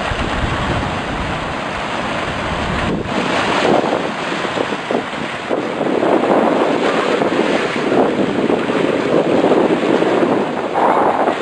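Wind buffeting the microphone over the wash of the sea, a steady rough noise with extra low rumble in the first few seconds.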